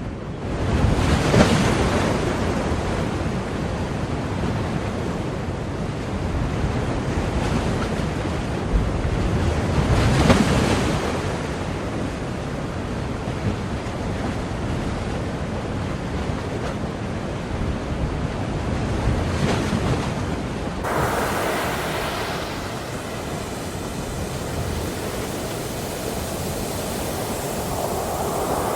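Ocean surf: waves break in swells about every nine seconds over a steady wash of water. About three-quarters of the way through the sound changes abruptly to a brighter, steadier hiss.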